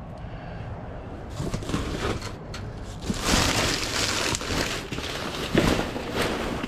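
Rustling, crunching and clattering of trash and scrap being pushed aside and handled during rummaging, with scattered knocks. It starts a little over a second in and grows much louder about three seconds in.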